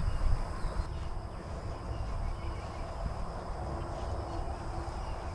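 Outdoor ambience: a low wind rumble on the microphone, with faint birds chirping and a steady high-pitched insect hum.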